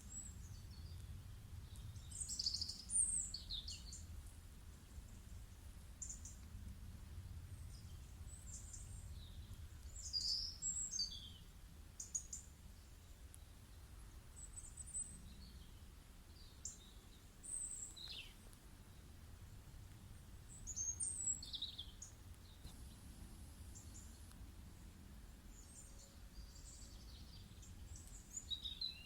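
Birds chirping: short high calls and quick down-slurred whistles that come in scattered clusters every few seconds. Under them runs a faint, low, steady drone.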